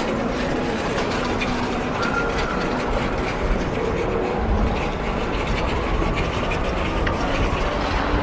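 Steady rumble of a rail vehicle running on its tracks, with faint high whines over it.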